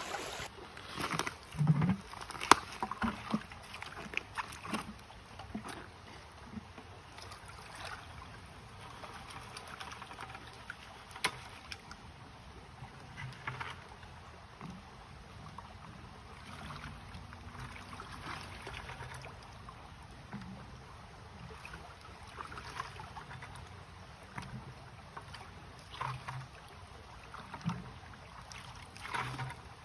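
Water sloshing and splashing in shallow creek water, with scattered knocks and clicks, over a steady rush of flowing water.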